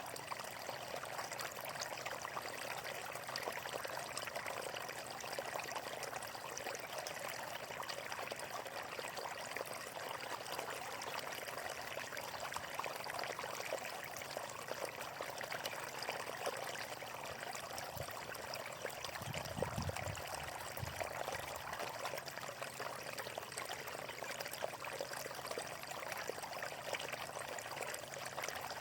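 Running water flowing and trickling in a steady splashing wash, with a brief low rumble about two-thirds of the way through.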